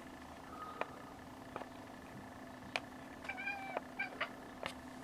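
Domestic cat giving a short meow about three and a half seconds in, with a briefer chirp just after, while watching birds. A few faint clicks are scattered through.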